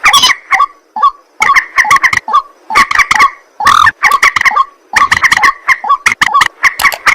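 A rail calling: loud, harsh croaking notes repeated rapidly, several a second, in uneven runs broken by short pauses.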